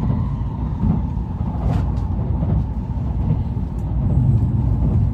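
Steady low rumble of a Shinkansen high-speed train running, with a brief hiss about two seconds in.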